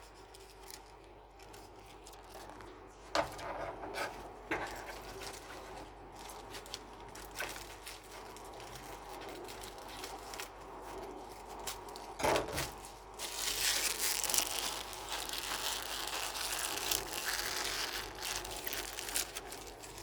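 Paper being handled: crinkling and rustling with scattered small clicks, louder and hissier for several seconds in the second half.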